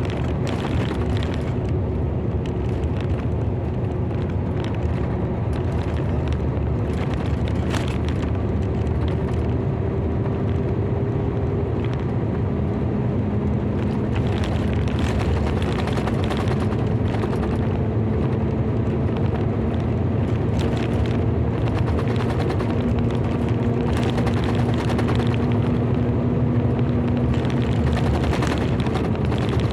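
Car on the move: steady engine and road noise, the engine note rising slowly through the middle. Scattered sharp taps sound over it.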